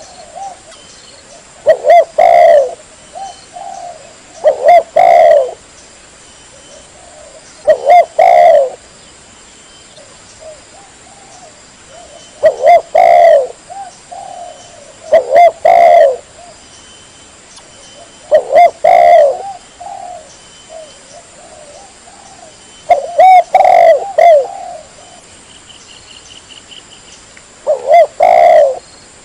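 Spotted dove (tekukur) cooing, a loud lure call: about eight short coo phrases, each a few rapid notes, repeated every few seconds with pauses between.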